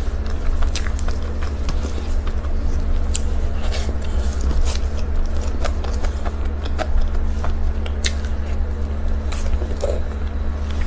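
Close-miked eating sounds of someone chewing Oreo cake: scattered wet clicks and smacks of the mouth, over a steady low hum.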